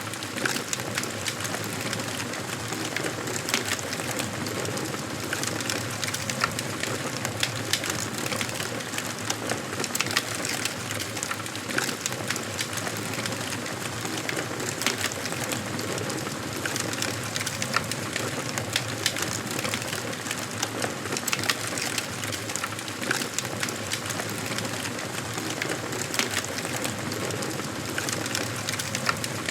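Wood fire burning in a fireplace, with frequent sharp crackles and pops over a steady rush of flame.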